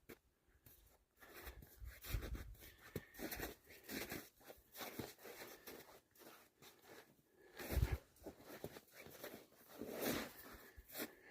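Faint, irregular crunching and rustling close to the microphone, with one heavier thud about two-thirds of the way through.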